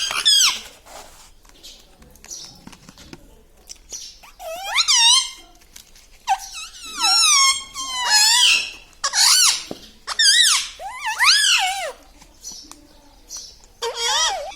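Pet parrot giving a string of high, squeaky calls with wavering pitch, in about seven bursts of half a second to two seconds with short pauses between them.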